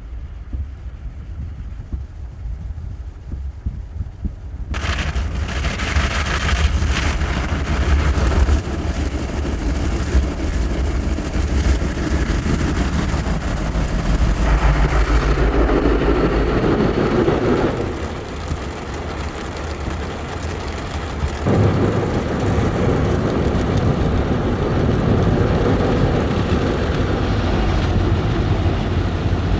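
Automatic car wash running: water spraying and drumming on a car over a steady low mechanical rumble. The sound changes as the wash moves through its stages, swelling about five seconds in and shifting again around fifteen and twenty-one seconds in.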